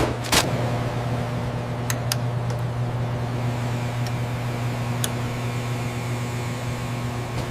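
Steady low machine hum with a held tone over it, typical of processing-plant machinery running. There is a knock right at the start and a few faint ticks later on.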